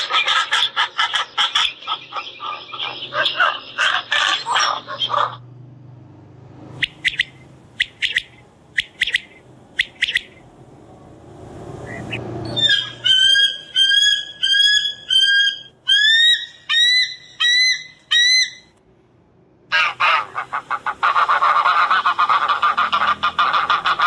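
Recorded bird calls played one after another. First comes a pelican's dense run of rapid calls for about five seconds, then a few short sharp calls. Then a quail gives repeated short rising whistles, and wild goose honking comes in fast and dense near the end.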